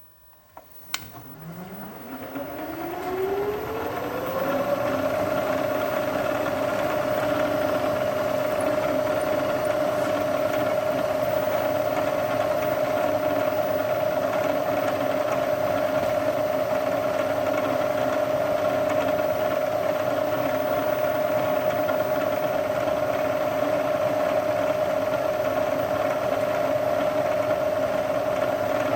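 Machine tool's electric spindle motor starting up, its whine rising in pitch over about four seconds as it comes up to speed, then running steadily at one pitch.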